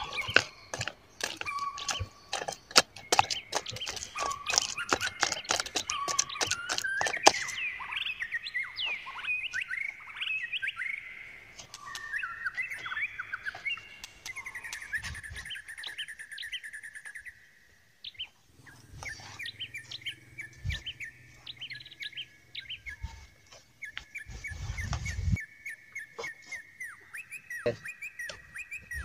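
Small birds chirping and twittering repeatedly. Through the first seven seconds there is a dense run of sharp clicks and taps, like a spoon knocking in a small metal pot, and a low hum comes in for several seconds past the middle.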